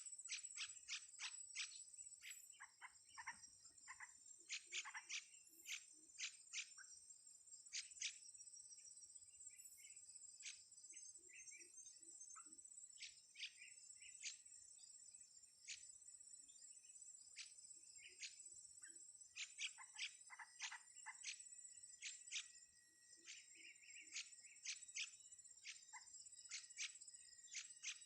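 A steady, high insect trill like a cricket's, with runs of short, sharp bird chirps every few seconds, all faint.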